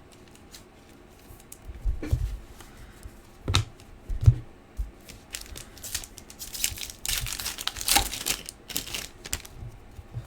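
A card pack's foil wrapper being torn open and crinkled, with a few soft knocks on the table before it, as hockey card packs are opened and handled.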